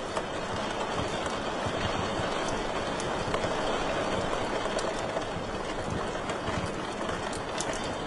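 Wood fire crackling in a fireplace: a steady rushing hiss of flames with many small, irregular pops and snaps scattered through it.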